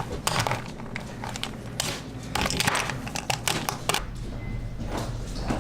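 Irregular crinkling and crackling, with a steady low hum coming in about four seconds in.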